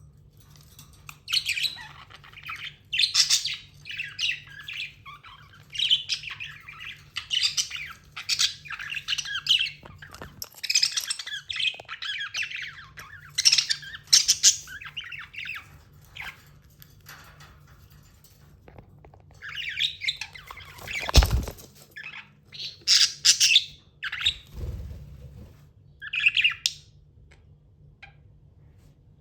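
Pet budgerigar chirping and squawking in quick runs of short, high calls, with a pause of a few seconds in the middle. A single sharp knock comes about two-thirds of the way through, the loudest sound, and a soft low thump follows soon after.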